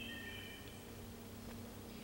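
A songbird singing a short phrase of clear whistled notes in the first half-second or so, over a faint steady low hum. Two faint clicks follow later.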